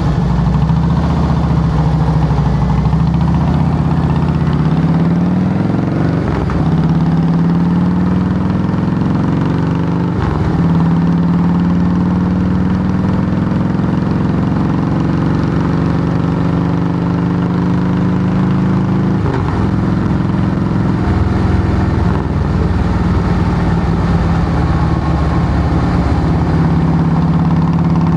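2008 Harley-Davidson Softail Heritage Classic's V-twin running loud through Samson fishtail true-dual exhaust pipes. The engine note climbs slowly and drops back a few times.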